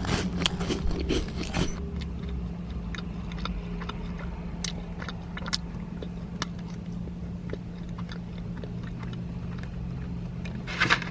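Biting into a soft filled doughnut and chewing: several loud bites in the first two seconds, then quieter chewing with small scattered clicks over a steady low hum.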